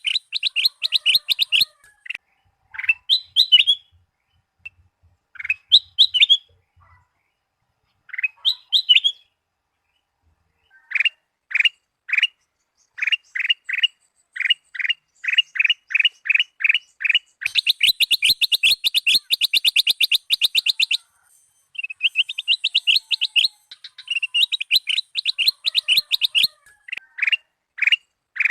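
Kutilang emas bulbul singing: phrases of quick, sharp repeated chirps broken by short pauses, with a faster, denser run of chirps past the middle.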